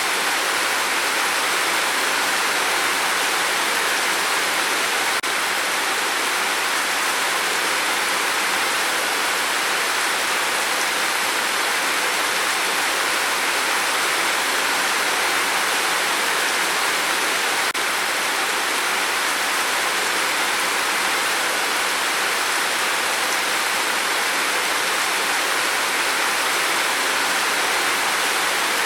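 Steady rain on a tin roof, a dense, even hiss of drops that holds the same level throughout.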